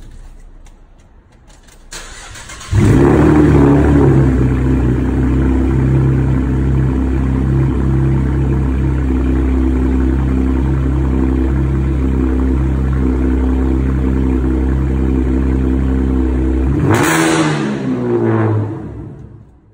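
Straight-piped Chevrolet Camaro V6 exhaust: the engine cranks briefly, catches a little under three seconds in and idles loud and steady. About 17 seconds in it gives a short blip, then winds down as it is switched off, its pitch falling until it stops.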